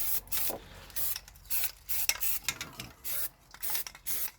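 Bed liner coating being rubbed onto a wheel by hand, with quick scrubbing strokes about two a second.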